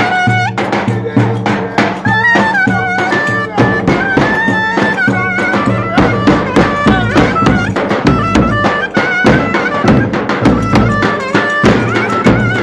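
Traditional Turkish folk dance music played by a wedding band: a reed wind instrument carries an ornamented, winding melody over a steady drum beat and a low repeating bass note.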